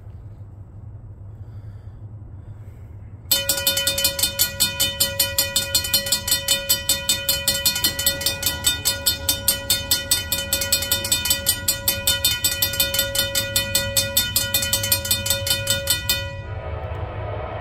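Railroad grade-crossing bell ringing rapidly and steadily, about six strikes a second, starting suddenly a few seconds in and cutting off near the end, over a low rumble. A train's noise begins to rise as the bell stops.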